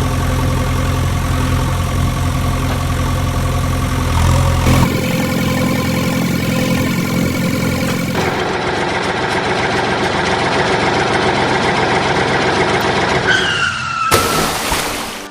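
Vehicle engine running steadily. Its sound changes abruptly twice, about a third and a half of the way through. Near the end a short falling tone is followed by a loud burst of noise.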